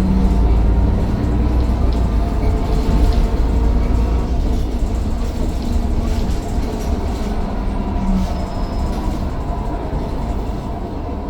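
Mercedes-Benz Citaro O530 bus driving, its diesel engine giving a steady deep rumble with a faint turbo whine that rises and later falls away. The sound grows slightly quieter near the end as the bus eases off.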